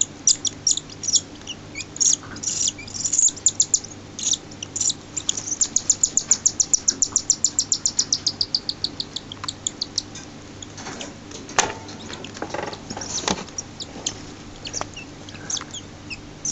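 Six-day-old cockatiel chicks food-begging while being fed: rapid runs of short, high chirps, several a second, coming in bursts. A few short rustles or knocks come in about two-thirds of the way through.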